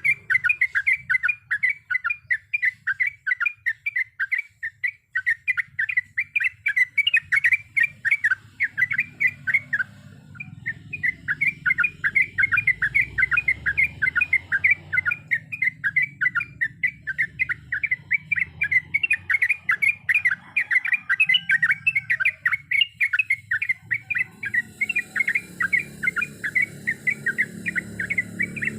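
Yellow-vented bulbul (trucukan) singing a long, fast run of repeated chattering notes, about five a second, with a short break about ten seconds in.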